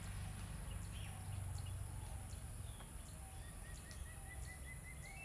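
Steady low room hum with a bird calling in the background: over the last two seconds, a quick run of short, evenly spaced chirps, rising slightly in pitch at the end.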